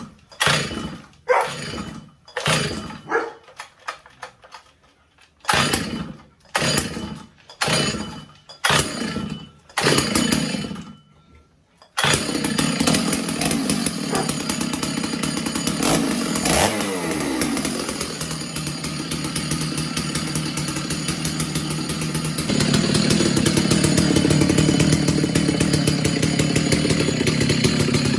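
Stihl 066 two-stroke chainsaw cold-started after about six months unused: about a dozen hard pulls on the recoil starter, each a short burst, before the engine catches about twelve seconds in and keeps running. It gets louder again about ten seconds later.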